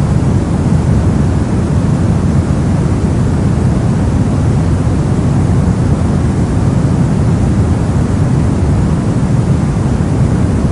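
Continuous brown noise: a steady, deep rumbling hiss, strongest in the low end and tapering off in the highs, with no changes or events.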